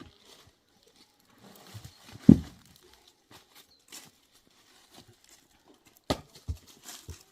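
One heavy thud about two seconds in, then three sharper knocks near the end.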